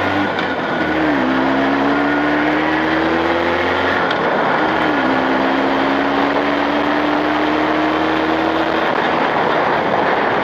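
Motorcycle engine under way, freshly rebuilt on Chinese cylinders and being run in. Its note rises as it pulls through a gear and drops sharply at two upshifts, about a second in and about four and a half seconds in, then eases off near the end, over a steady rush of wind and road noise.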